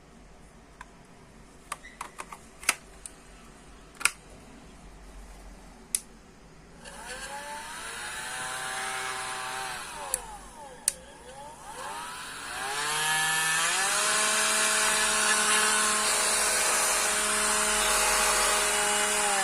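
A few sharp clicks of parts being handled, then a rechargeable stick vacuum cleaner's motor switching on with a rising whine, spinning down about three seconds later, then starting again and running steadily: a test run after fitting a new battery and power socket.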